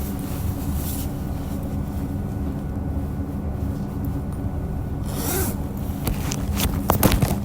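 Diesel railcar heard from inside the car: a steady low engine hum, a short rising hiss about five seconds in, then a run of sharp clicks and knocks near the end.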